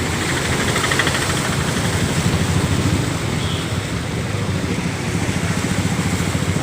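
An engine running steadily at idle, with a fast, even pulsing beat.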